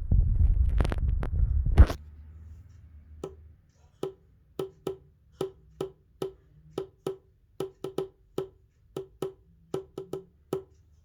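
A loud low rumbling noise with clicks in it, which cuts off about two seconds in. Then a series of sharp, woody knocks, about two a second and slightly uneven, each with a short hollow ring.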